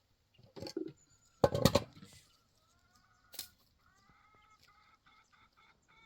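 A few knocks and a loud rustling thump, then a bird or fowl giving short pitched calls rapidly repeated, about five a second.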